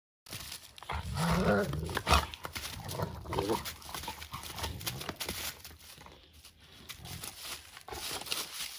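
Animal sounds: a few short pitched calls in the first couple of seconds, with scattered clicks and knocks throughout.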